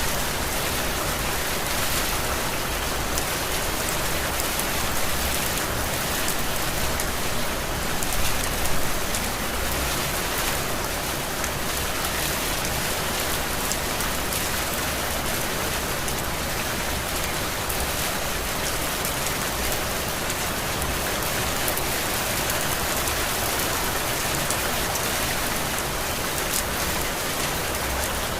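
Steady heavy rain, an even hiss of rainfall, swelling a little louder about eight seconds in.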